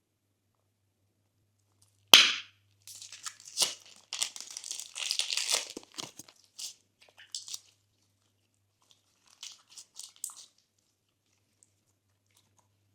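Slime and its add-ins being handled and mixed: a sharp sound about two seconds in, then a few seconds of dense crackling and crinkling, thinning out to scattered crackles near the end.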